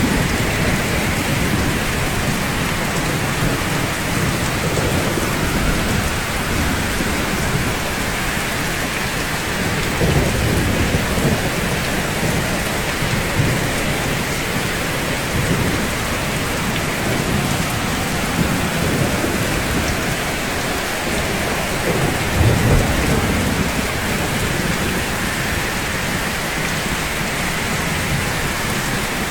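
Steady rain falling on a roof, an even hiss, with low rumbles that swell and fade several times, the strongest about three-quarters of the way through.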